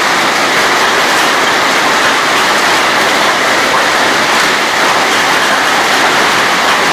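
Hailstones pelting down in a dense, steady clatter.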